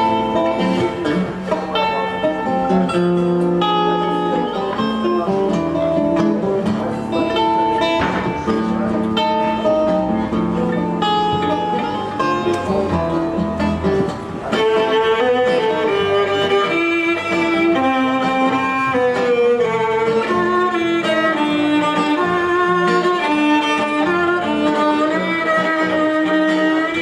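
Guitar and violin playing an instrumental introduction to a song in a minor key. About halfway through, a higher, sustained violin melody comes to the fore.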